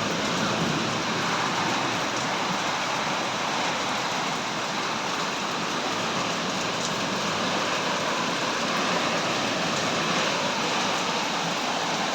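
Steady, heavy rainfall, an even hiss of rain with no let-up.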